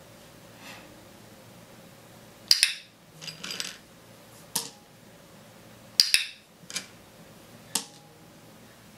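Small toy animals knocked over, clattering briefly on a tabletop, mixed with sharp clicks from a training clicker. There are two loudest clatters, about two and a half and six seconds in, and a few lighter knocks and clicks between and after.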